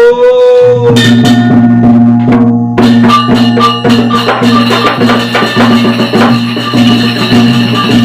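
Sasak wayang gamelan ensemble starting a gending: a long held note opens it, then from about a second in drums, gongs and metallophones come in together, with steady low sustained tones under a busy pattern of struck beats and a repeating bright metallic note.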